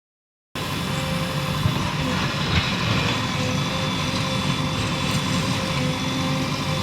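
Diesel engine of a JCB 3DX backhoe loader running steadily, with a low rumble and a steady hum, starting about half a second in.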